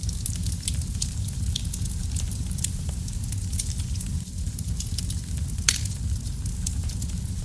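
Wood fire burning in a fireplace, crackling: a steady low rumble under scattered sharp snaps, with one louder pop a little over five and a half seconds in.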